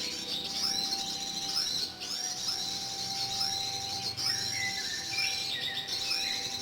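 Small birds chirping and calling, many short overlapping notes that swoop up and down, with a faint steady tone underneath.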